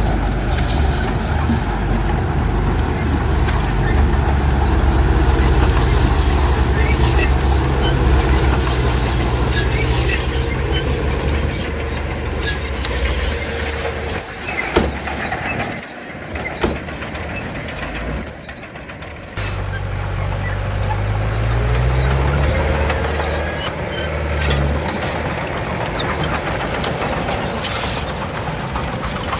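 Heavy diesel machinery engine running under load. It drops away for a few seconds about halfway through, then comes back and revs up with a rising pitch.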